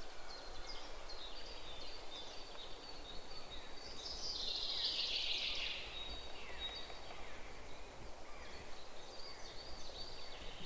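Birds calling: many short, high, falling chirps repeating throughout, with one louder, longer call sweeping downward about four seconds in.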